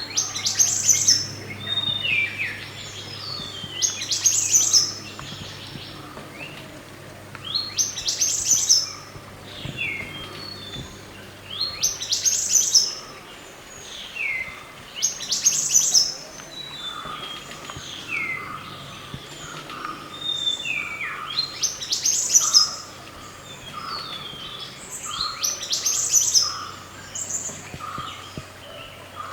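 A wild mantenan gunung songbird singing: a short loud, high phrase of rapid rising and falling notes, repeated about every three to four seconds, with a fainter second bird calling in between. A low steady hum runs underneath and fades out about halfway through.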